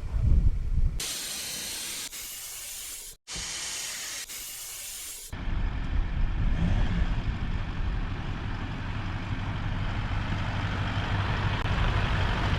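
Air hissing out of a four-wheel-drive's tyre through a tyre deflator tool, in two stretches split by an abrupt cut. About five seconds in the hiss stops and gives way to the steady low drone of the vehicle's engine running, with wind noise.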